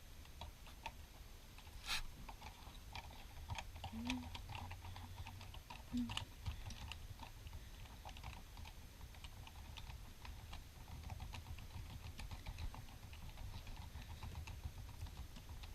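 Many small, irregular clicks and taps of hand work on an RC car's wheel, as a screwdriver and fingers take out the wheel screws and handle the plastic parts.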